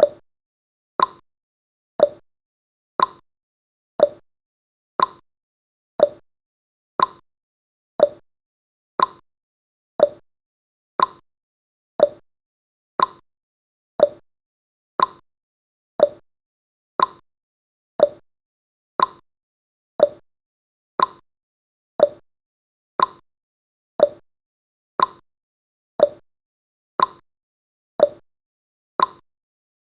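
Clock-tick sound effect of a countdown timer: one short, sharp tick every second, steady and evenly spaced, with near silence between ticks.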